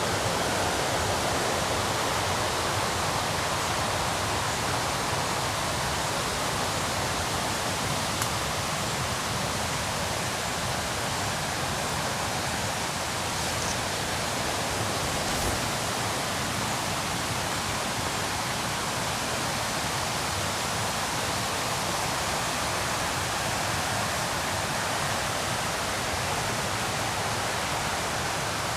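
River rapids rushing steadily, an unbroken even wash of fast-flowing water.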